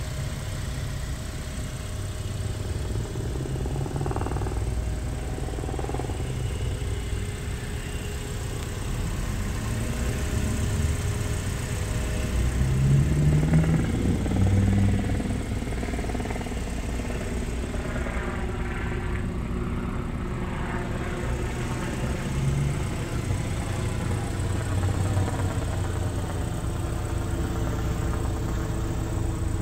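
2022 Porsche Macan's engine running at low revs, its pitch rising briefly about twelve to fifteen seconds in before settling back.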